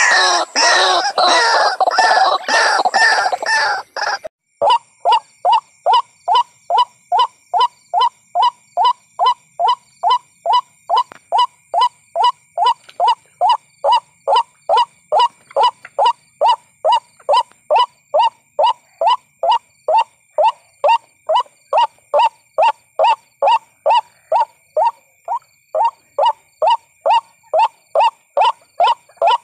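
White-breasted waterhen calls played as a trapping lure: a dense, loud chattering chorus for about four seconds, then after a short break a single short falling note repeated steadily about twice a second.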